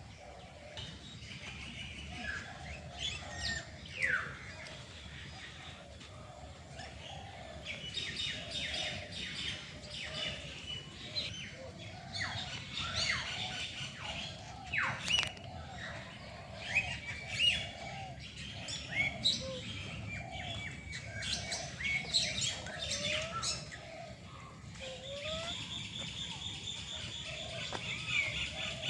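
A mixed flock of captive birds calling all at once: many overlapping chirps, squawks, quick falling whistles and rapid trills, with no single call standing out for long.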